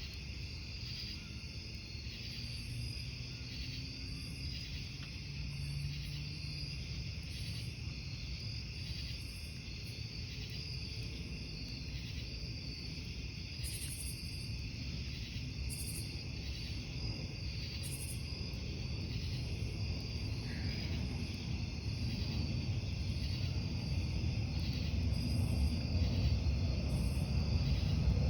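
Crickets chirping in a steady, even rhythm, with a low rumble underneath that grows louder toward the end.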